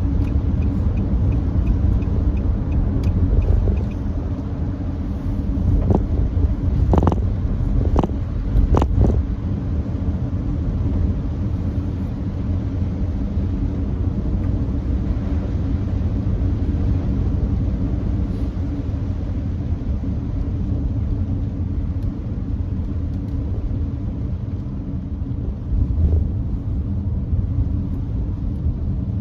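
Nissan Note e-POWER driving on a wet expressway: a steady rumble of road and tyre noise. A few brief thumps come about six to nine seconds in.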